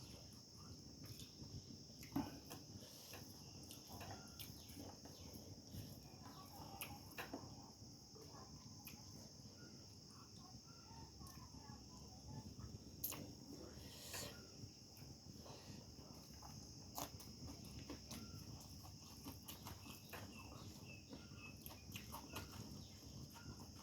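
Crickets chirring steadily in the background, with scattered faint clicks and taps.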